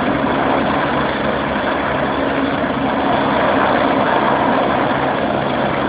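Helicopter running on the ground with its rotor turning, a steady engine and rotor noise just before liftoff.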